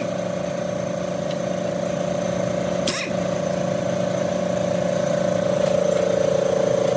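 A small motor running with a steady hum, its pitch dropping slightly near the end, with a single sharp click about three seconds in.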